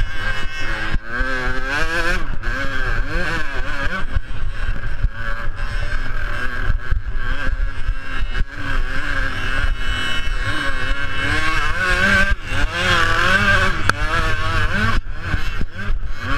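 Small two-stroke youth motocross bikes racing, their engines revving up and falling back again and again as they go round the track.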